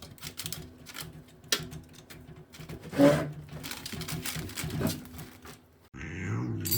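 Scattered light knocks and clatter, with one louder knock about three seconds in.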